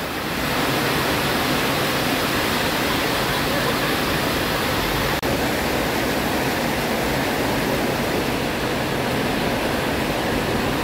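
Heavy rain pouring down in a steady, unbroken hiss. The speaker calls it very strong rain.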